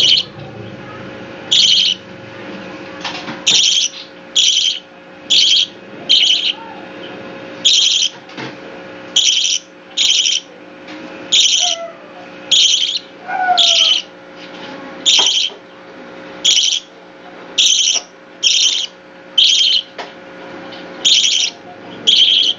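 A young pet bird calling over and over, short high calls at roughly one a second, with a faint steady hum underneath.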